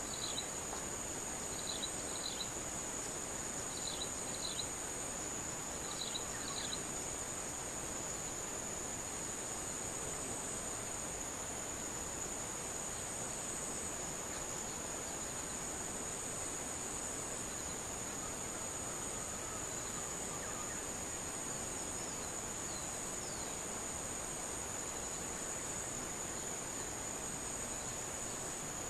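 Insects keeping up a steady, unbroken high-pitched drone. Through the first several seconds a bird gives a short two-note call about every two seconds.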